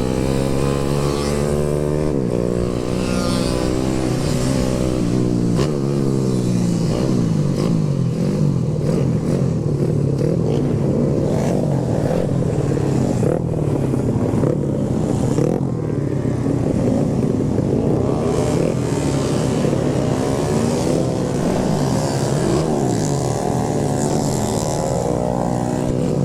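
Motorcycle engine being ridden, its pitch rising and falling with the throttle and gear changes, over wind and road noise.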